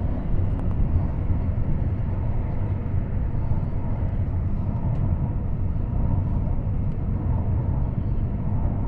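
Interior of a CAF AS-14 metro train running at speed between stations: a steady low rumble from the wheels and running gear.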